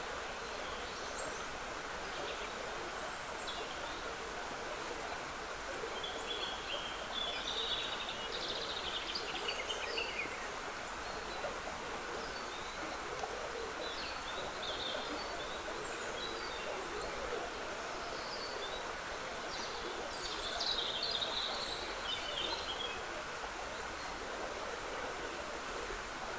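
Trickling stream water running steadily, with woodland birds singing over it; two bouts of song stand out, about a quarter of the way in and again about three-quarters through.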